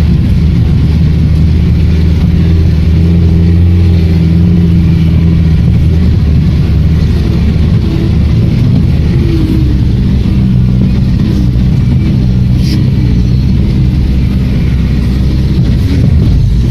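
Engine of a roughly 50-year-old GAZ off-road jeep running steadily under load while driving, its pitch shifting slightly with the throttle partway through.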